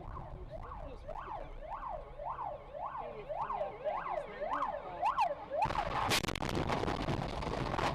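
Emergency vehicle siren yelping: fast rising-and-falling sweeps, about two a second, growing louder. About three-quarters of the way in it is cut off by a sudden loud, crackling noisy rush.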